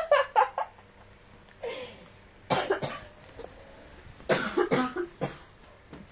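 A person coughing in a few short bouts of separate coughs, one bout about two and a half seconds in and a longer one a little past four seconds.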